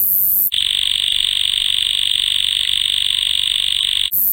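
Loud, steady, pulsing insect buzz that starts abruptly about half a second in and stops abruptly near the end; a high-pitched night insect chorus is heard before and after it.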